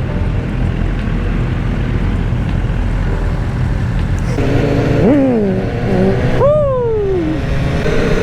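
Motorcycle riding along with a steady engine rumble and wind rush, then the engine revs up sharply twice, about halfway in and again a second and a half later, each rise in pitch falling away again.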